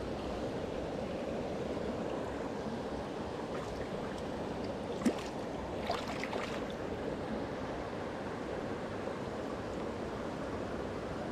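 Mountain stream running steadily, a constant rush of water, with a couple of light clicks about halfway through.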